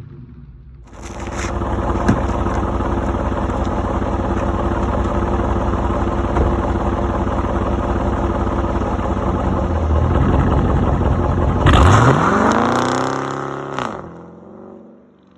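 Dodge Challenger R/T's 5.7-litre HEMI V8 exhaust, starting abruptly and running loud and steady for several seconds. Near the end it revs sharply and the pitch falls away as it dies down.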